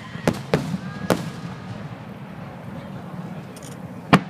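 Aerial firework shells bursting: three sharp bangs in the first second or so, then a louder bang near the end. Between them is a steady murmur of crowd voices.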